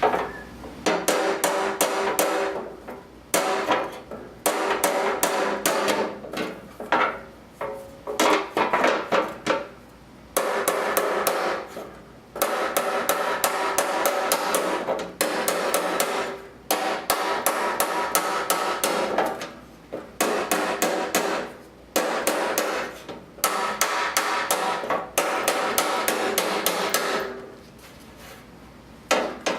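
MIG welder crackling in bursts of one to three seconds with short pauses between, welding up cracks in a sheet-steel Kubota tractor fender.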